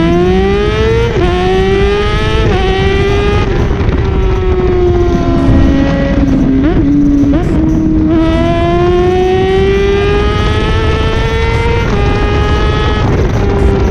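Motorcycle engine pulling up through the gears, the pitch rising then stepping down at each shift, easing off in the middle with two quick throttle blips, then accelerating again, over a steady rush of wind.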